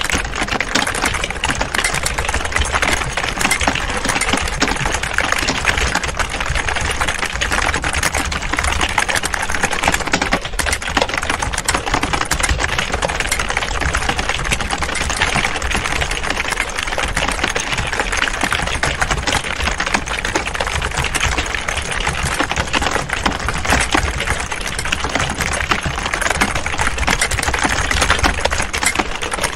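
Many computer keyboards being typed on at once, a dense, steady clatter of overlapping keystrokes.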